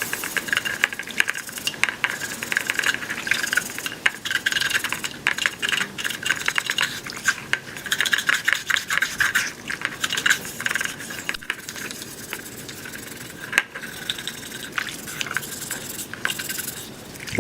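A part of an old rusty fan being rubbed down by hand with an abrasive: a dense, scratchy rasping made of many quick, irregular strokes, cutting off at the end.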